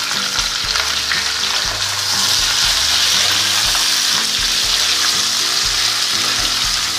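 Chopped vegetables sizzling in hot mustard oil in a pan, stirred with a wooden spatula that ticks and scrapes against the pan. The sizzle swells about two seconds in.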